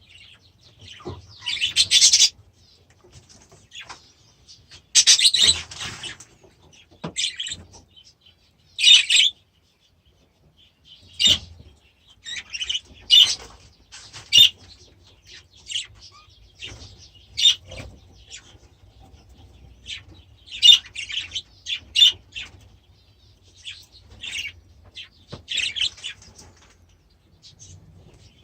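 Budgerigars chirping and chattering in irregular bursts of short, high calls.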